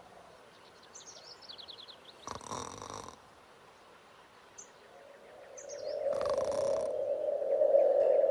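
Small birds chirping in quick descending trills, twice, with two brief rushes of noise. In the last few seconds a steady mid-pitched hum swells up and grows louder.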